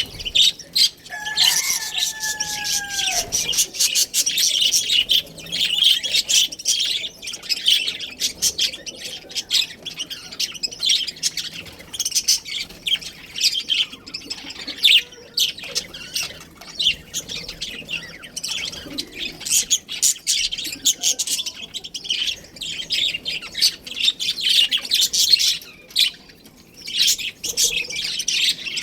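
Budgerigars chattering with a dense stream of fast, high chirps and warbles, with one lower, falling call about a second in.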